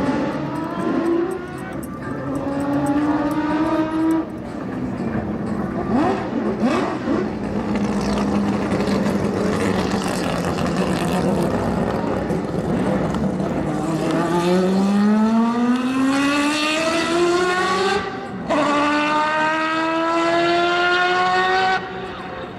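Historic Group C race car engines accelerating hard, their pitch climbing through the revs. A sharp upshift about eighteen seconds in is followed by another climb.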